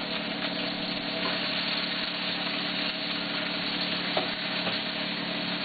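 Onions sizzling steadily in hot oil in a wok as they are stir-fried, with a steady low hum underneath.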